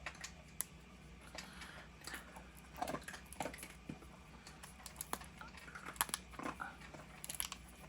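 Silicone resin mold being flexed and peeled away from a cured resin crescent-moon piece, giving irregular small clicks and crackles as the resin comes loose.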